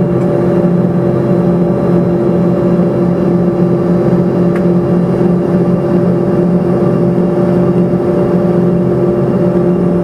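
Cabin of an Embraer ERJ-145 regional jet, with its rear-mounted Rolls-Royce AE 3007 turbofans running. There is a steady loud rush, and several low tones are held throughout without rising or falling.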